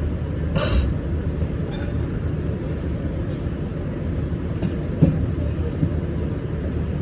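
Someone eating a bowl of ramen: one short slurp or rustle about half a second in, then a few light clicks of chopsticks on the bowl, over a steady low rumble.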